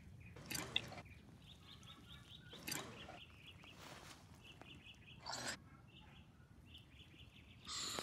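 A bird chirping faintly in short runs of quick, high repeated notes, with a few brief noisy bursts in between; the loudest burst comes near the end.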